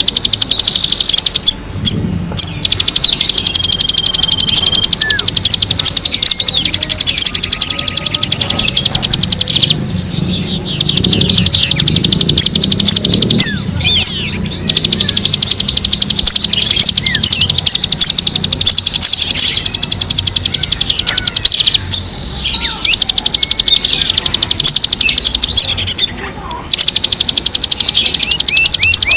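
Recorded wild songbird calls used as a bird lure: a loud, dense, very rapid high-pitched chirping chatter with scattered short whistled notes, broken by a few brief pauses.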